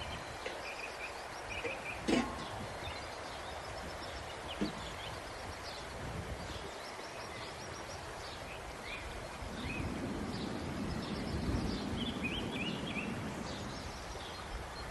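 Small birds chirping repeatedly over a steady outdoor background hiss. There is a sharp knock about two seconds in, a softer one a few seconds later, and a low rumble that swells up and fades away between about ten and thirteen seconds.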